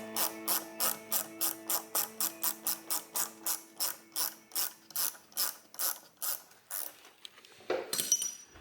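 Socket ratchet wrench clicking steadily, about four clicks a second, as bolts are loosened on a Toyota 22R engine; the clicking stops about seven seconds in.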